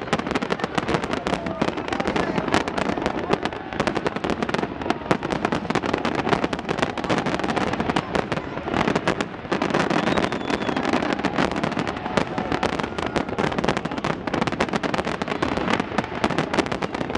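Aerial fireworks shells bursting in rapid, overlapping bangs and crackle, with no let-up.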